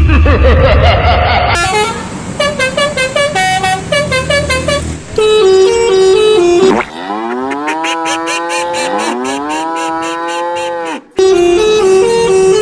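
Multi-tone Basuri 'telolet' bus horn playing melodies: stepped note patterns, then about halfway through a rising and falling siren-like wail, then a fast back-and-forth between two notes near the end. A low rumble comes before the horn at the start.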